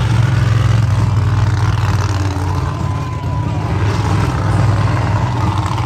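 A vehicle engine running steadily with a loud low rumble at a motorsport stunt show.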